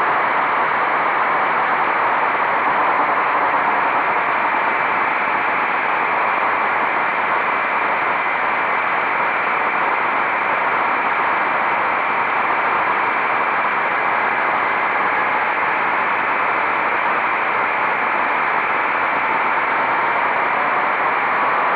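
Steady rush of riding wind on the microphone of a moving motorcycle, with the engine running underneath at a steady speed.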